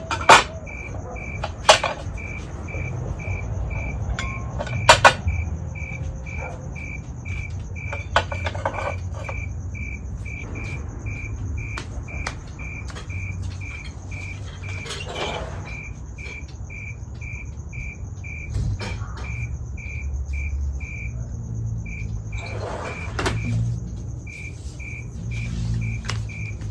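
A cricket chirping in an even rhythm, about two chirps a second, over a steady higher insect trill. A few sharp knocks sound in the first five seconds.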